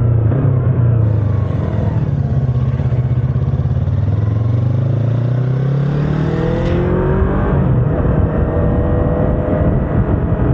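Yamaha R25's 249 cc parallel-twin engine pulling the bike along: its note drops early on, climbs for a few seconds, breaks briefly about seven seconds in, then climbs again, over steady rushing noise.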